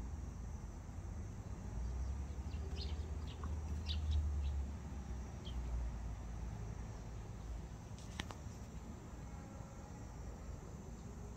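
Outdoor ambience: a steady low rumble with a few short, high bird chirps about two to five seconds in, and a single sharp click about eight seconds in.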